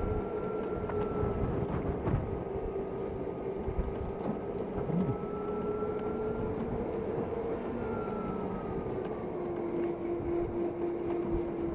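Zero DSR/X electric motorcycle riding along, its drive motor giving a steady whine over wind and tyre noise, the pitch dropping slightly near the end.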